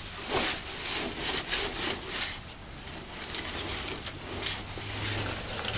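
Bush branches and leaves rustling, scraping and snapping in irregular bursts as they are pushed and prodded through.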